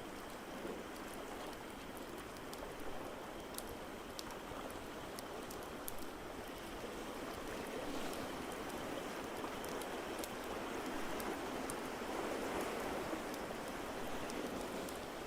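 Ocean waves making a steady rush that grows louder about halfway through, overlaid with scattered sharp crackles and pops from a wood fire in a fireplace.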